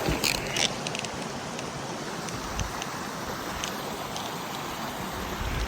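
Steady rush of a mountain stream, with a few sharp clicks in the first second.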